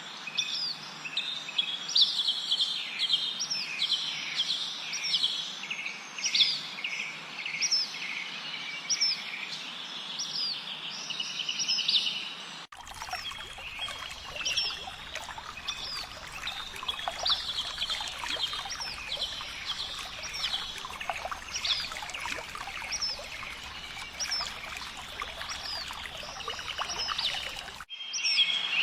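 A chorus of birds chirping and singing: many short, rising whistled calls repeating about once a second over a steady background hiss. The background changes abruptly about halfway through and changes back near the end.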